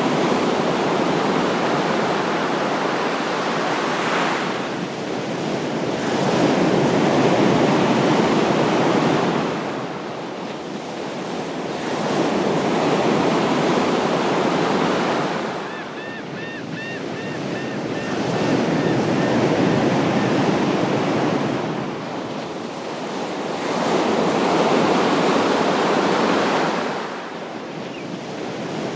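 Ocean waves breaking and washing in, swelling and falling away about every five to six seconds, five times over.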